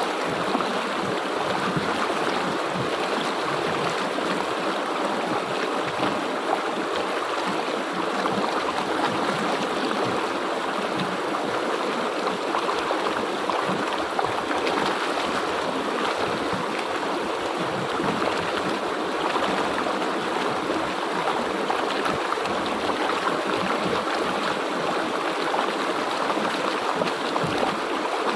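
River water flowing steadily over rocks, an even rushing and babbling with no let-up.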